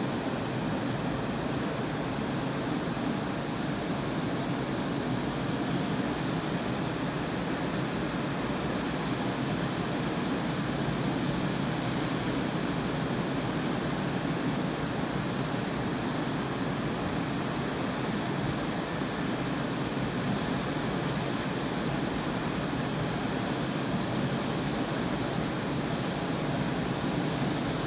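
Steady outdoor background rush, like distant traffic or wind, with no distinct events.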